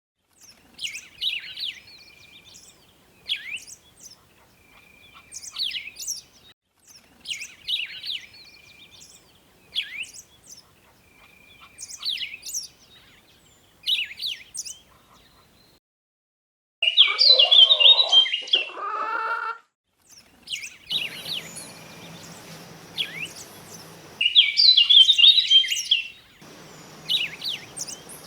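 Birds calling: a short high call repeats about every two seconds, then a louder, fuller call comes in, followed by more chirps over steady background noise.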